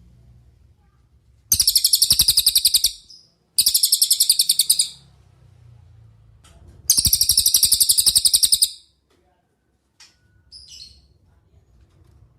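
A cililin songbird singing three loud, rapid, high-pitched trills, each a quick run of evenly repeated notes lasting one to two seconds. Two short, fainter calls follow near the end.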